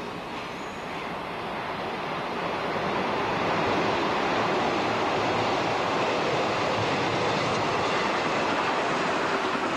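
A JNR electric multiple-unit train passing close by. Its rolling noise grows over the first few seconds and then holds steady as the cars run past.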